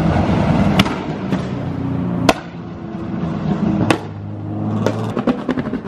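A car's engine running as it drives past, with a few sharp pops and a low steady hum in the middle, then a rapid run of sharp pops near the end.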